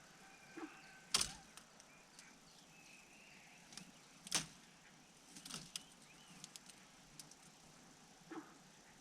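A few sharp clicks and taps at a bird's nest, the loudest about a second in and again after four seconds, with faint high bird chirps between them.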